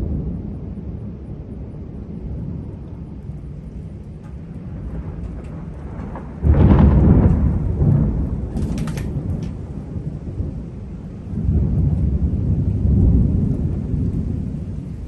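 Thunder rumbling in a thunderstorm. A sudden loud clap about six seconds in rolls on for a few seconds, then a second long rumble swells up a few seconds later.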